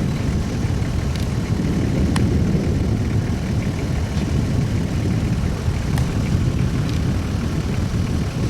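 Off-road vehicle engine idling: a steady low rumble, with a few faint clicks over it.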